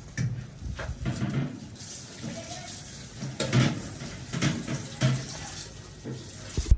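Water running from a tap into a sink, with irregular knocks and handling sounds, and one sharp knock near the end.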